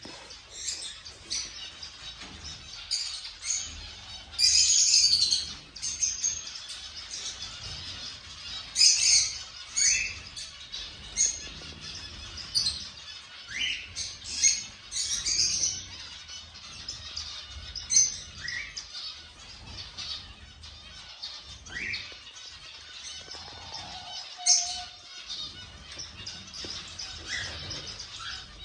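Cockatiels calling: short rising whistles and high chirps, repeated irregularly every second or two, with a louder burst of chirping about four to five seconds in.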